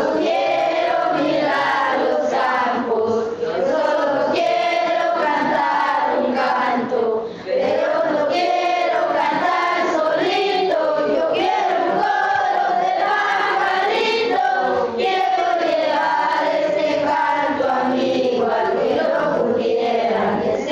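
Children's choir singing a flowing melody, with a short break between phrases about seven seconds in.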